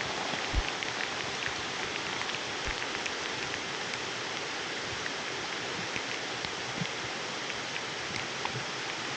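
Heavy rainforest rain falling steadily, with individual drops ticking throughout and two low thuds from heavier drops in the first three seconds.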